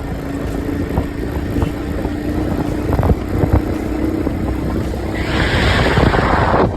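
Motorcycle running on the move, a steady low rumble with scattered rattling knocks; a loud rush of noise, like wind on the microphone, swells about five seconds in.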